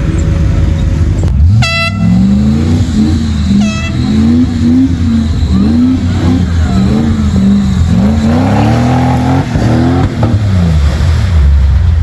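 A vehicle engine revving up and down over and over, with two short horn toots near the start.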